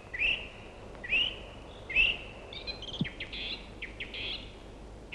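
Songbirds calling: a short upward-hooked chirp repeated about once a second, then a quicker run of high notes, over a faint steady hiss.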